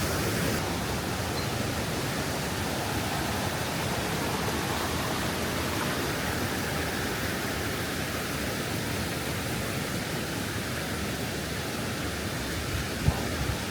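Steady rush of water falling over the Krka River's cascades, an even hiss without a break. A single short knock sounds near the end.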